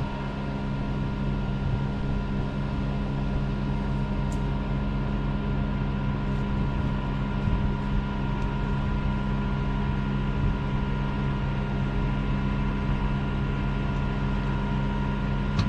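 An engine or motor running steadily at constant speed, a continuous drone with a few faint clicks over it.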